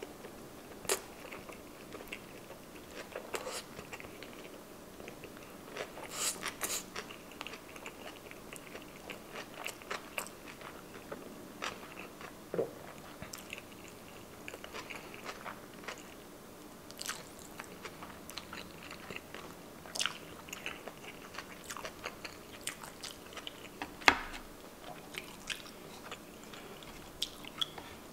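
Close-miked chewing of a mouthful of sushi roll: soft, irregular wet mouth clicks and smacks, with one sharper, louder click about 24 seconds in.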